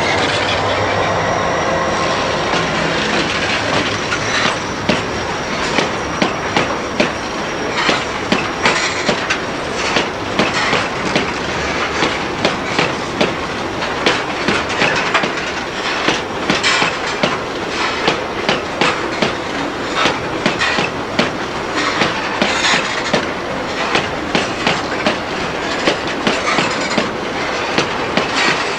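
Freight train cars rolling past, their wheels clacking over rail joints in a continual run of sharp clicks. A thin high-pitched wheel squeal sounds over the first several seconds.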